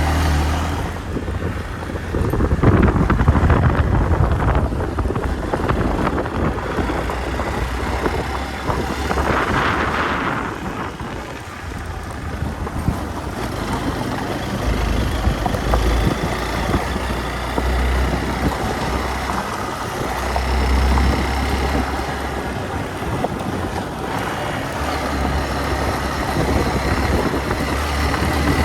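Hero XPulse 200 motorcycle's single-cylinder engine running, a steady low rumble, with wind gusting over the microphone.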